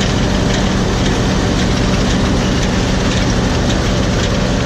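Combine harvester running steadily: a low engine hum under broad machinery noise, with a faint ticking about twice a second.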